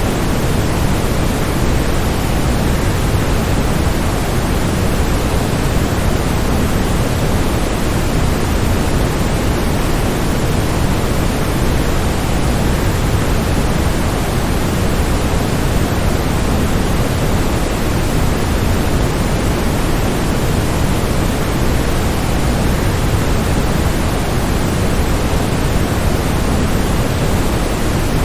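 Waterfall: a steady, unbroken rush of falling water, strongest in the low end, with no change throughout.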